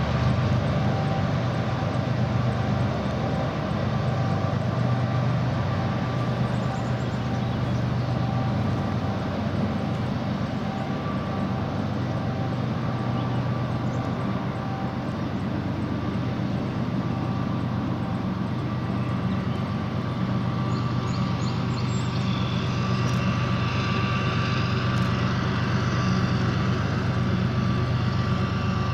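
Freight train rolling across a steel truss bridge: a steady low drone and rumble of the cars on the rails. About two-thirds of the way through, thin high squealing tones join in as the rear distributed-power diesel locomotive approaches.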